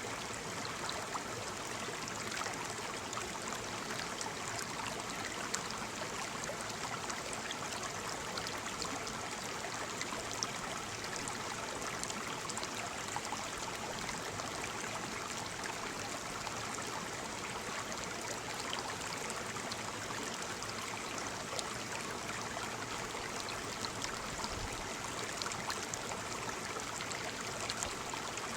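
Waterfall: a steady rush of falling water with fine splashing and trickling.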